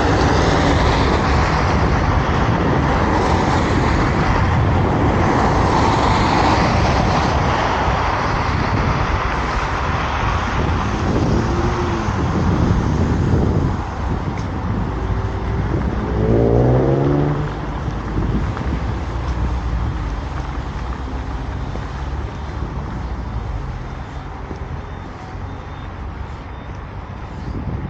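Road traffic: cars driving past on a city street. About sixteen seconds in, one vehicle's engine rises in pitch as it speeds up, and the traffic sound gradually fades.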